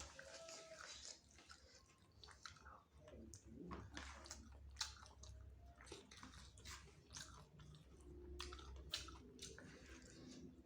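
A person chewing and biting into chicken wings close to the microphone, faintly, with short irregular clicks of mouth and teeth.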